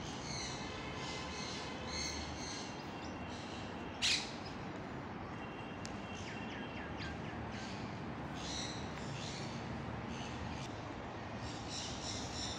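Birds chirping again and again over a steady background hiss, with a few thin descending calls around six to seven seconds in. A single loud, short, sharp sound stands out about four seconds in.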